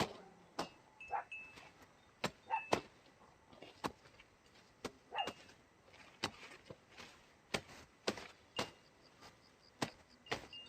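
An irregular series of sharp clicks or knocks, about one or two a second, with a few short high tones between them.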